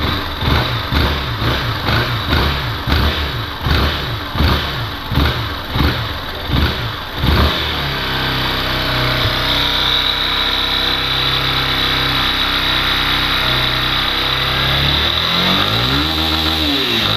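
Yamaha Fazer 250's single-cylinder four-stroke engine revved in a dozen or so quick blips, then held at high revs for several seconds before dropping back down near the end. The owner says its rattling noise comes from the ceramic-coated cylinder and is not the engine knocking.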